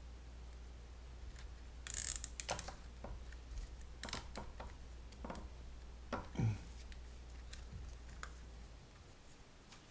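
Plastic zip tie being pulled tight through its ratchet head: a quick zipping run of clicks about two seconds in, then scattered single clicks and plastic handling.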